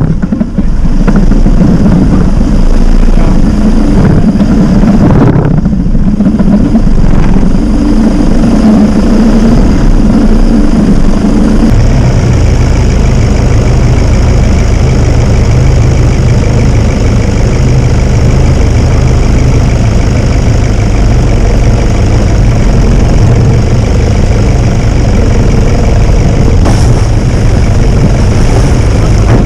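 Vehicle engine running loud and steady; its note drops lower about twelve seconds in and holds there.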